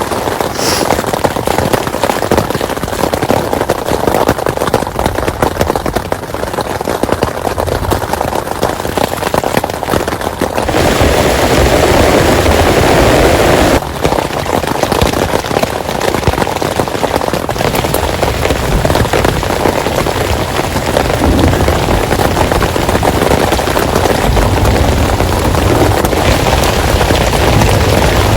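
Heavy rain falling hard, a dense, continuous hiss of close drop hits; it grows louder about ten seconds in and stays heavy.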